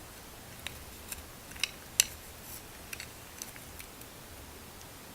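A series of about seven sharp, irregular clicks and taps, the loudest about two seconds in.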